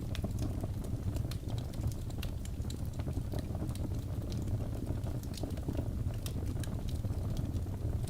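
Birch logs burning in a fireplace: a steady low rumble of flames with frequent small, sharp crackles and pops scattered irregularly throughout.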